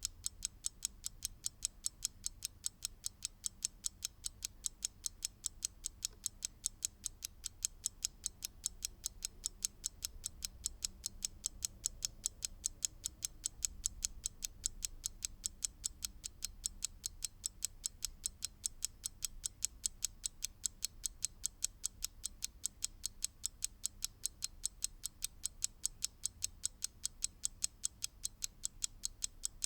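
Mechanical clock ticking steadily, with several crisp, high, evenly spaced ticks a second.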